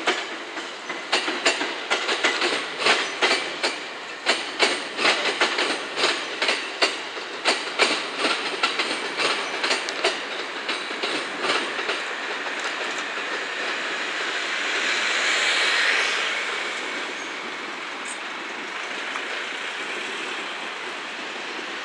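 Train wheels clacking quickly and irregularly over rail joints and points for about the first twelve seconds. The clacks then give way to a smooth rolling noise that swells as a train passes close, loudest about sixteen seconds in, and settles to a steady hum of wheels on rail.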